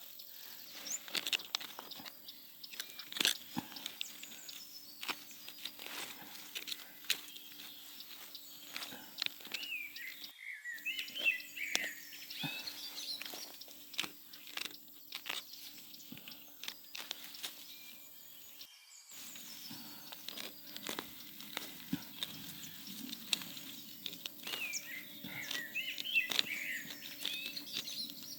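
Frequent irregular crackling and crunching clicks, with birds chirping in short bursts twice and a faint steady hum. The sound breaks off briefly twice.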